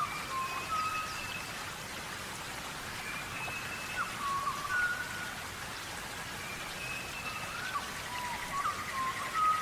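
Birds calling with short whistled notes, some sliding up or down, and a quick trill near the end, over a steady hiss.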